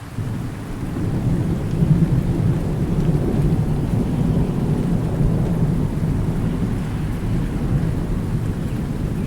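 Rolling thunder rumbling over steady rain. The low rumble swells over the first couple of seconds and then keeps going.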